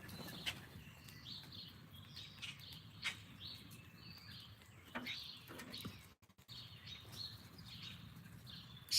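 Small birds chirping repeatedly in short high notes, with a few sharp clicks in between; the sound drops out briefly a little past the middle.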